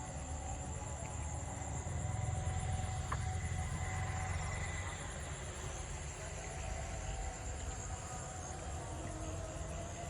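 Steady high-pitched insect buzzing over a constant low rumble.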